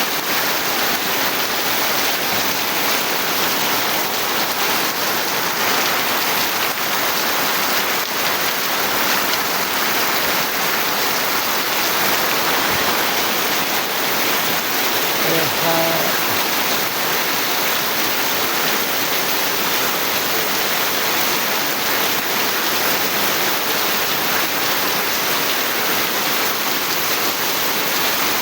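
Steady rain falling, an even unbroken hiss. Just past halfway a brief, faint pitched sound shows through it.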